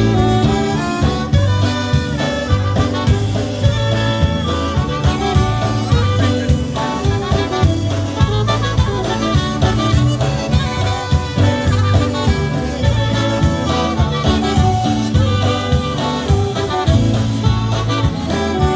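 Live polka band playing an up-tempo instrumental with an alto saxophone lead over a steady bass and drum beat.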